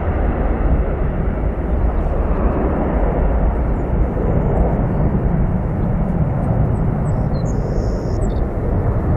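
Jet airliner engines heard from outside the airfield as a loud, steady rumble.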